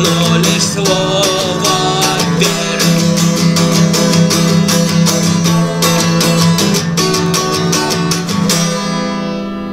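Guitar strummed steadily through a song's instrumental ending, over a steady low note. The last chord is left to ring and fade from about 8.5 s in.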